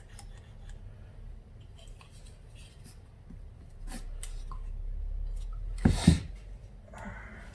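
Small metal clicks and taps of a carburetor being handled and taken apart with hand tools on a workbench, with a louder clunk about six seconds in and a brief scrape after it.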